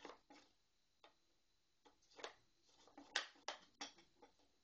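Light, irregular taps and knocks of hand tools on wood, with a quick run of three or four sharper knocks about three seconds in.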